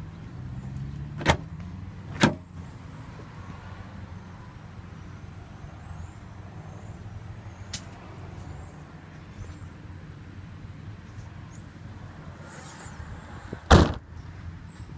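Three sharp thumps over a steady low hum: one about a second in, another a second later, and the loudest near the end.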